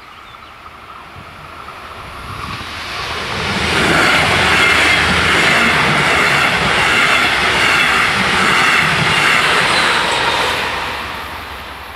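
DB double-deck regional train passing over a level crossing. It builds from about two seconds in, runs loud through the middle with a rhythmic clatter of wheels on the rails, and fades toward the end.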